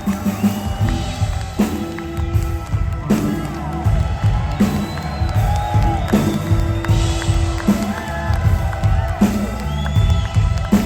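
Live blues-rock band playing at full volume: drums and bass pounding steadily under electric guitar, with a few faint cheers and whoops from the crowd.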